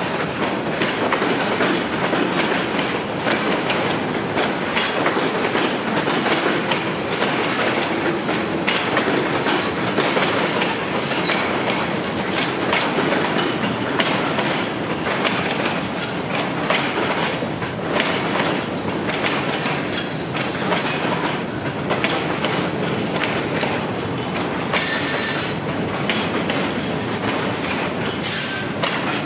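Freight train cars rolling past, their wheels clicking steadily over the rail joints. Near the end come two brief high-pitched wheel squeals.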